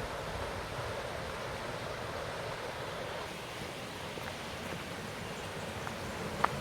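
Steady rushing of falling water from the falls and creek below the track, with a brief sharp tick near the end.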